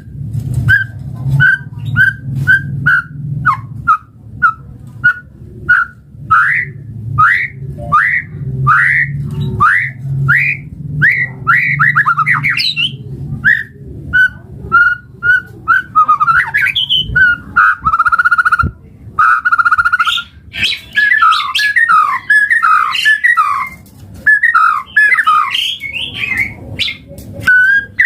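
White-rumped shama (murai batu) singing loud, clear whistles. It opens with a run of short repeated notes about twice a second, moves to rising whistled sweeps, and from about halfway turns to varied rapid phrases and trills. A low hum sits under the first half.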